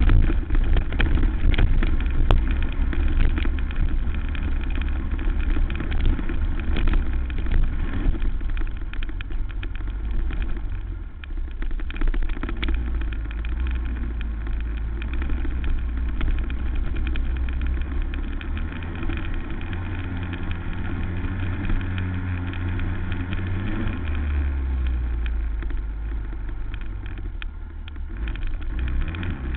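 Racing quad (ATV) engine running hard, its revs climbing and dropping again and again as it is ridden around a motocross track, with a heavy rumble underneath.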